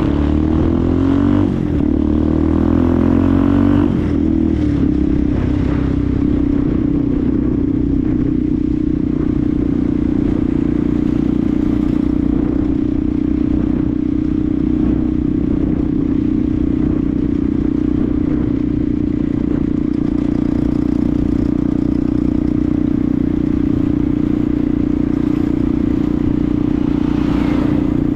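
Benelli TNT 125's single-cylinder four-stroke engine running as the bike is ridden. Its pitch wavers for the first few seconds, then holds steady at an even engine speed.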